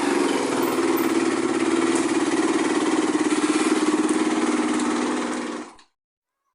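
Dirt-bike engine running steadily at low revs with a fast pulsing beat, then cutting off abruptly near the end.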